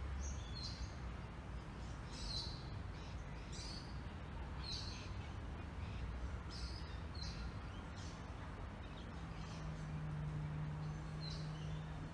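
Birds chirping outdoors: short, high chirps every second or so over a steady background rumble, with a low hum coming in about nine seconds in.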